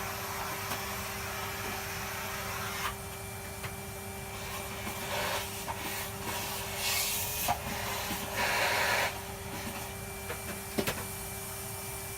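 Vacuum cleaner running steadily while it sucks grit and dust out of a dirty vacuum's parts. The rush of air changes as the nozzle is moved about, with several louder surges of sucking in the middle and two sharp clicks near the end.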